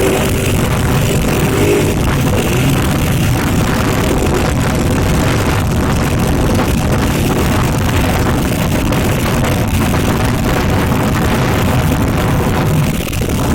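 Heavy trucks driving past with their engines running, mixed with loud music.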